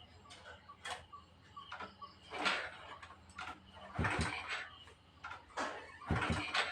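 Honda motorcycle being kick-started without catching: a series of scraping, clunking kicks one to two seconds apart, two of them with a low thump as the engine turns over, and no engine running after them.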